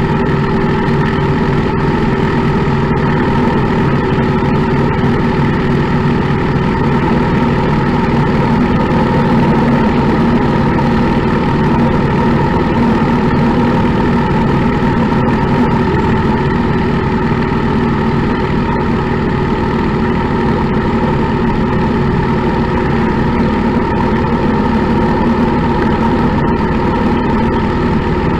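Motorcycle engine running steadily at an even cruising speed, heard from the bike itself, its note holding the same pitch throughout with no shifting or revving.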